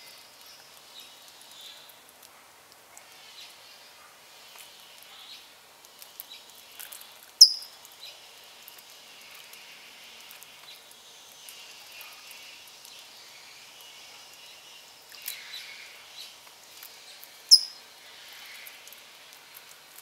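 Songbirds chirping and twittering softly, with two loud, sharp, high chip calls that drop quickly in pitch, about ten seconds apart.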